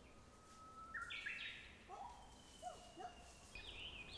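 Several wild birds singing faintly: long, thin held whistles mixed with short notes, and a run of quick falling chirps near the end.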